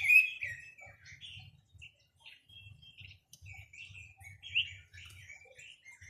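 A quế lâm songbird singing: a loud, rapid run of chirping notes that ends about half a second in, then scattered softer chirps and short phrases, with one louder phrase near the middle.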